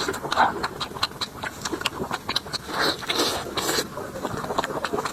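Close-up mouth sounds of someone eating braised meat: wet chewing and lip smacks, with a few louder slurps.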